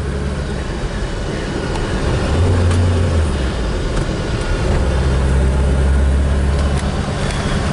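Four-cylinder engine of a 1976 BMW 2002, heard from inside the cabin with road noise, as the car is driven and shifted up through the gears of its five-speed gearbox. The low engine drone swells twice, briefly about two and a half seconds in and again for about two seconds later on.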